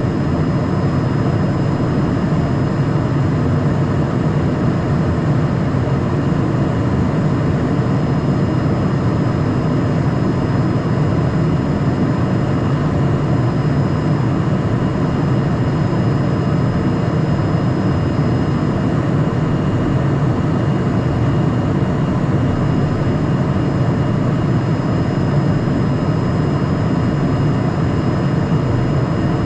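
Steady cockpit noise of a Cessna Citation Mustang twin-engine light jet: a constant rush of engine and airflow noise, heaviest in the low range, with faint steady high whines above it.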